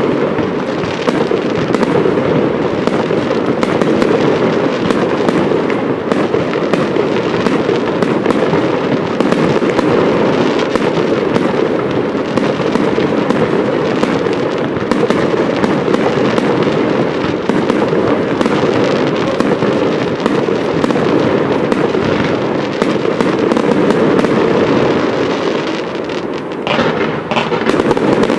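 Aerial fireworks display: a dense, continuous barrage of launches, bursts and crackle overlapping without pause. There is a brief lull near the end before it picks up again.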